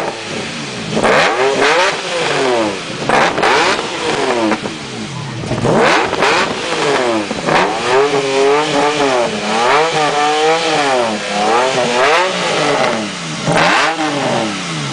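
Lamborghini Murciélago's V12 with a Borla aftermarket exhaust being revved over and over, each rev climbing in pitch and falling back toward idle. A few separate revs come at the start and again near the end, with a quick run of short blips in the middle.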